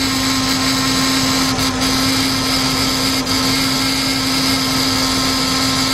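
The 5.4-litre V8 of a 2004 Lincoln Navigator idling with a steady hum, heard up close in the engine bay; the engine has a cylinder misfire.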